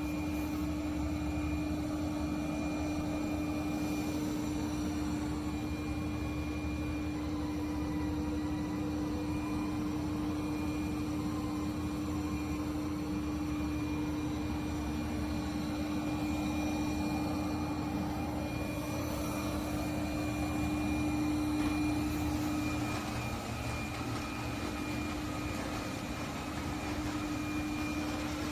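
eufy L60 self-empty station's suction motor running steadily with a constant hum, drawing the dust out of the docked robot vacuum's bin. The hum weakens and the sound shifts slightly about 23 seconds in.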